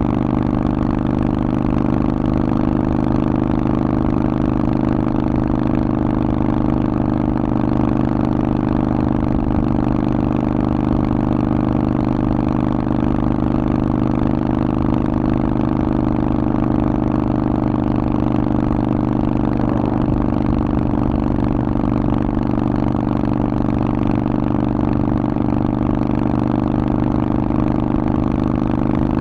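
Harley-Davidson Forty-Eight's air-cooled 1200 cc V-twin running through a Vance & Hines exhaust, holding a steady, even pitch with no revving.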